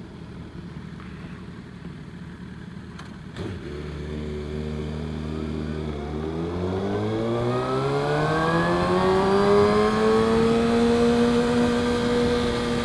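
Motorcycle engine accelerating: after a couple of sharp clicks about three seconds in, the engine note holds, then rises steadily and grows louder before levelling off near the end.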